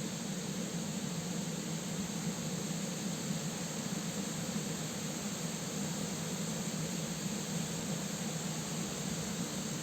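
Steady rushing noise of a waterfall and river, unbroken and even in level.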